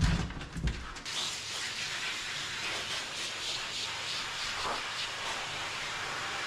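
Steady hiss of water spraying from a dog-bath sprayer, starting about a second in after a few low knocks.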